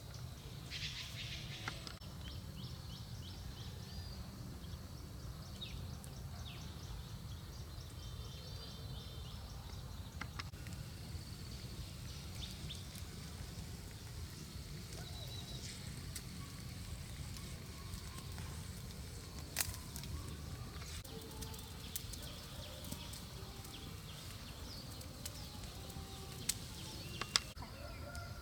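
Outdoor ambience: birds chirping on and off over a steady low rumble, with a few sharp clicks or knocks, one about two-thirds of the way through and two near the end.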